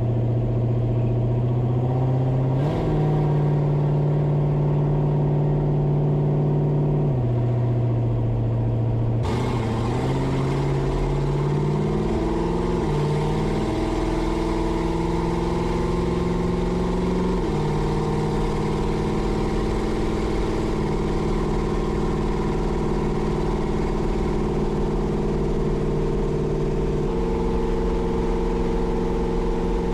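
Vehicle engine running under way, its pitch holding steady for a few seconds at a time and then stepping up or down. About a third of the way in the revs climb and drop in steps, as if accelerating through the gears.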